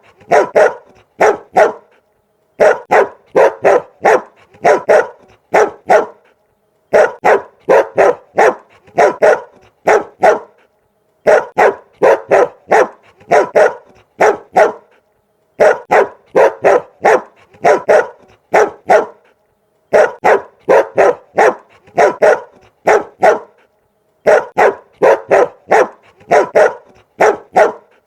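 Dog barking in quick runs of about five barks, each run followed by a short silence, the same run repeating evenly about every four seconds.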